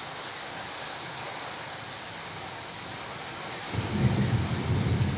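Steady heavy rain hissing, then about three and a half seconds in a loud rumble of thunder breaks in and keeps rolling.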